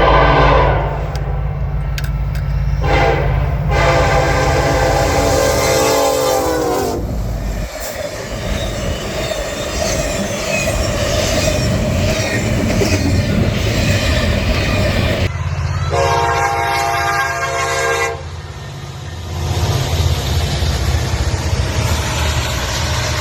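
Diesel locomotive air horn sounding long blasts as a train passes close by, over a steady engine rumble and the clatter of wheels on the rails. The horn's pitch drops as it goes by, and it blows again near the end.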